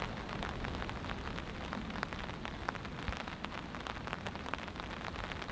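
Steady rain pattering on a tarp and the ground, with many separate drops ticking, and a low rumble of wind underneath.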